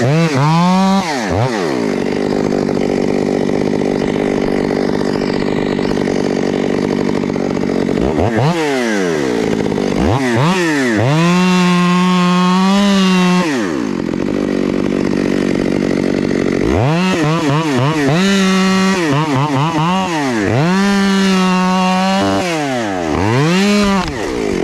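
Two-stroke chainsaw cutting into a bowed, windthrown stem: long stretches of steady full-throttle cutting, with the engine easing off and revving back up about five times between cuts.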